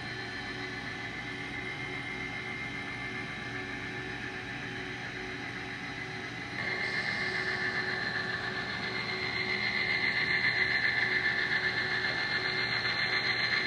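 N scale model train running on the layout, a steady whine that jumps louder about six and a half seconds in and keeps building as it comes closer.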